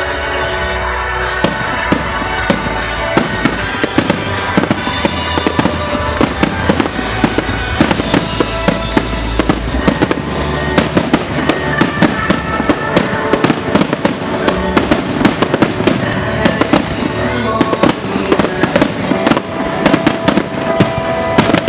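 Aerial fireworks shells bursting in quick succession, several sharp bangs a second, over music set to the fireworks display.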